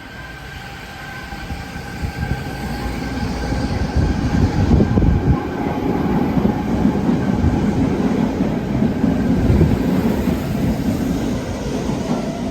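Train running past on the rails: a dense rumble of wheels and cars that swells over the first few seconds and stays loud, with a faint steady high tone running through it.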